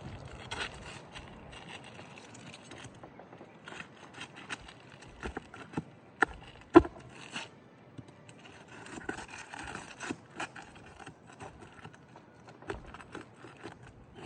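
A roofing tool scraping and knocking under asphalt shingles as something stuck is worked loose, with scattered sharp clicks and one loud knock about seven seconds in.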